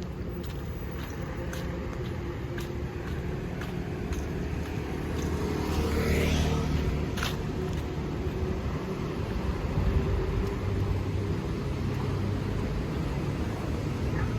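Road traffic passing on a city street, a steady engine rumble with one vehicle passing close about six seconds in.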